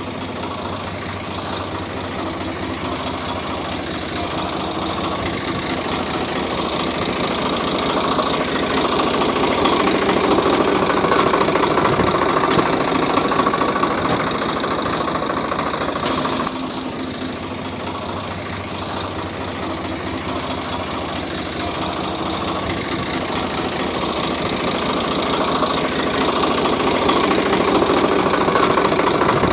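Engine running with a knocking, idle-like beat. It grows louder over the first ten seconds, drops back suddenly about sixteen seconds in, then builds again.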